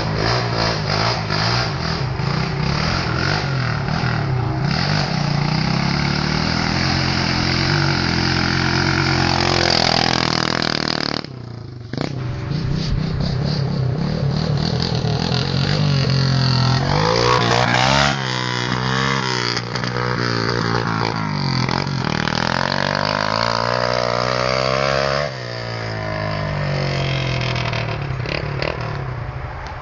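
Pit bike engine running and being revved, its pitch climbing and falling again and again, with a brief drop-out about eleven seconds in.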